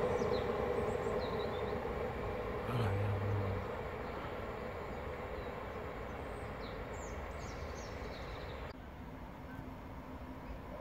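A train's running noise fading away as it recedes, dying down over several seconds, with faint high chirps over it.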